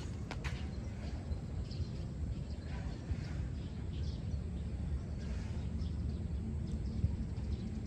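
Steady low rumble of ocean surf and outdoor air, with a couple of sharp clicks just after the start and faint scattered chirps above it.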